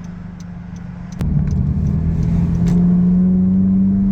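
Honda Civic four-cylinder engine through a muffler-delete exhaust, heard through an open car window: a steady low exhaust note that gets suddenly louder about a second in as the throttle opens, then holds a loud, steady drone that rises slightly in pitch under acceleration.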